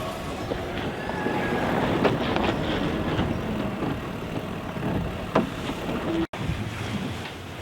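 Volvo Ocean 65 racing yacht sailing just after a tack: a steady wash of water and wind with clicks and short squeaks of gear on deck. The sound drops out abruptly for an instant about six seconds in.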